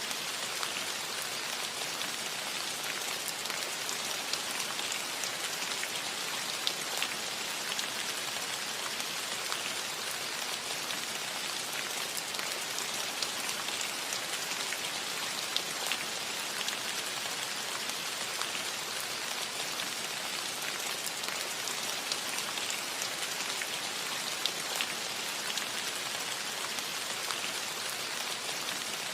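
Steady rain on a metal roof: an even hiss flecked with many small pattering drop hits.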